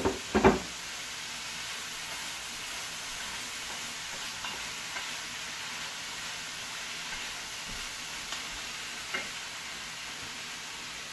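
Beef, onion and tomato sizzling steadily in a frying pan as they are stirred with a wooden spatula. A few sharp knocks of the spatula come about half a second in, then occasional light clicks and scrapes.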